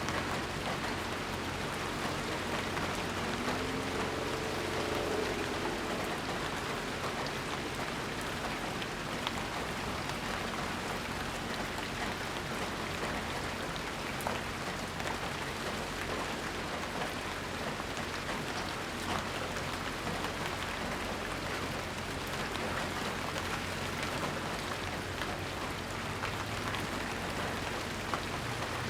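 Rainstorm: steady rain falling, with scattered sharp drops striking nearby surfaces.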